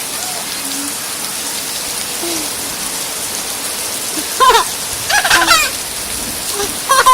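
Steady heavy rain hissing on surfaces, with high-pitched children's shouts breaking in loudly three times in the second half.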